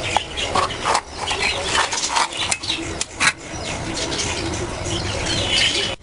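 Small birds chirping in short, sharp calls, with one higher call held briefly near the end.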